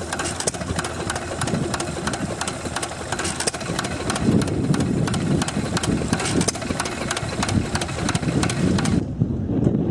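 Engine running at idle with a steady, even rhythm of sharp knocks. The sound changes abruptly about nine seconds in.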